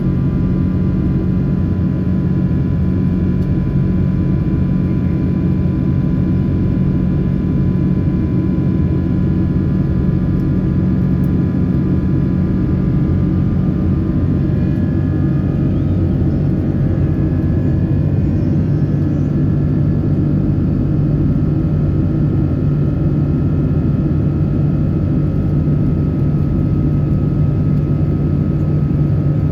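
Cabin noise inside a Boeing 777-300 airliner: the steady low rumble of its twin jet engines and airflow, with faint engine whine tones that shift in pitch about halfway through.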